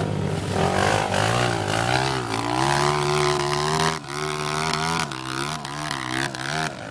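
Off-road motorcycle engine revving, its pitch rising and falling again and again, with a brief dip about four seconds in.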